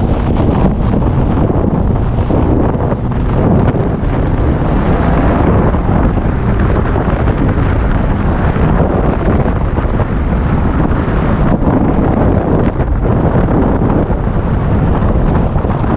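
Heavy, steady wind noise buffeting a helmet-mounted action camera's microphone on a motorcycle at riding speed, loud enough to bury the bike's engine.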